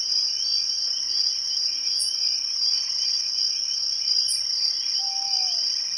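Steady, loud, high-pitched trilling of a night insect chorus, with two brief very high chirps about two and four seconds in and a single short falling whistle near the end.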